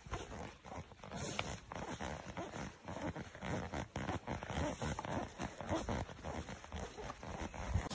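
Irregular rustling and knocking of a hiking backpack being handled: fabric, straps and buckles shifting, several soft taps a second.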